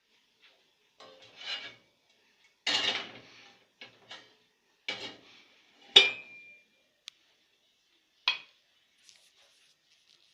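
Kettle being handled and set in place: a run of clatters, rubs and knocks. The loudest is a sharp metallic clank about six seconds in that rings briefly, followed by a click and one more knock.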